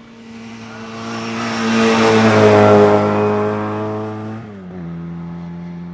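Hill climb racing car passing at full throttle, its engine note holding steady as it grows loud and then fades, with a sharp drop in pitch about four and a half seconds in.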